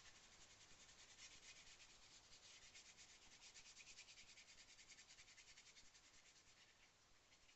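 Faint, rapid back-and-forth rubbing of a wet brush over card, blending distress ink out with water. The strokes are quick and even, and they thin out near the end.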